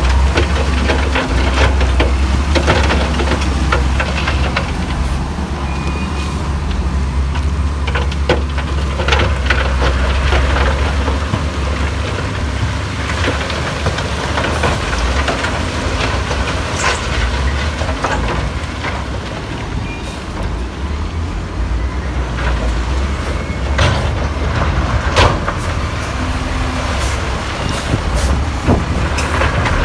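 Heavy diesel earthmoving machinery at work: a steady low engine rumble with frequent clanks and knocks scattered throughout.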